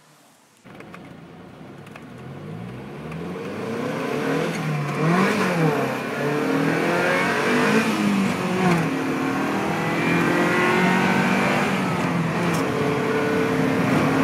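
Lotus Europa SE's turbocharged four-cylinder engine accelerating hard, heard from inside the cabin. The engine note climbs and drops back several times as it shifts through the gears, getting louder over the first few seconds.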